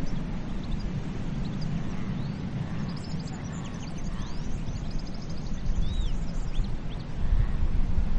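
Steady low rumble of sea surf, with birds chirping and calling over it in short notes and a few arched calls, busiest in the middle.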